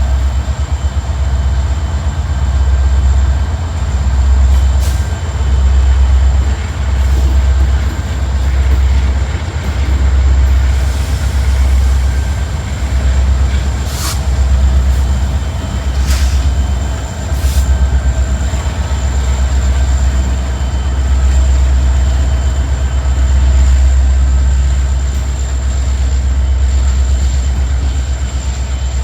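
Freight train cars rolling past on the rails, a heavy rumble that swells and fades about every second and a half. A few sharp metallic clanks come in the middle.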